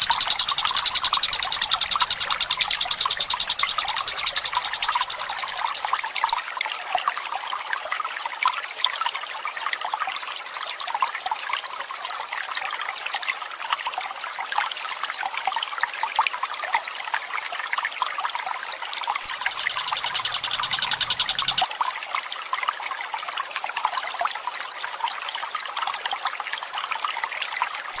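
Water trickling steadily throughout, overlaid by a tengkek buto's rapid rolling trill, which fills the first four seconds or so and returns for about two seconds about two-thirds of the way through.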